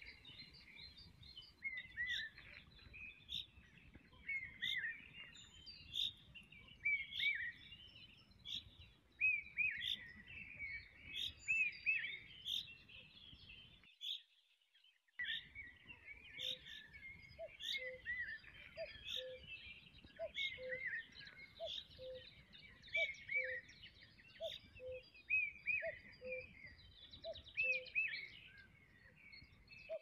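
Several birds chirping and singing in quick, sweeping high notes, with a lower short call repeated about once a second in the second half. The sound cuts out briefly about halfway through.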